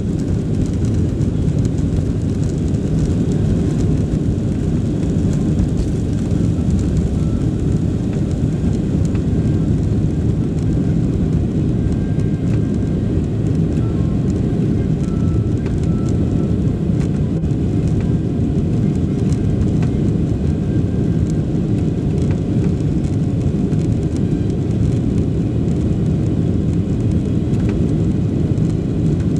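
Boeing 737 Next Generation's CFM56-7B jet engines and rushing air heard from inside the passenger cabin as a steady low rumble.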